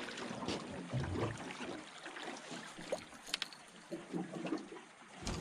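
Faint water sloshing around a small boat, with a few light knocks and two sharp clicks.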